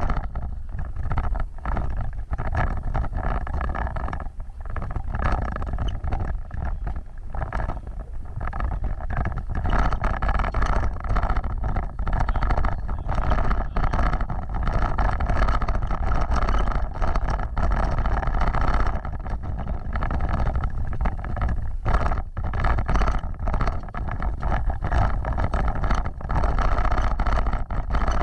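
An off-road vehicle driving, its engine running steadily under a heavy low rumble, with wind and jolts buffeting the microphone.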